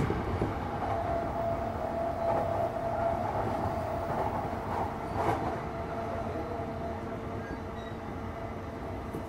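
Running sound of a Shonan-Shinjuku Line electric commuter train at speed: a steady rumble of wheels on rail with a steady humming tone, and a single knock about five seconds in.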